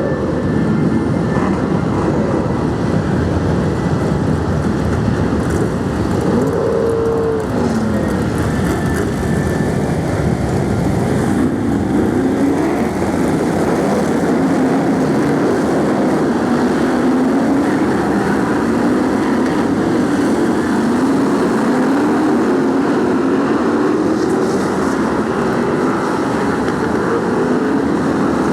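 A pack of BriSCA Formula 1 stock cars racing, their V8 engines making a steady, loud din. Many engine notes overlap and keep rising and falling as the cars rev up and lift off.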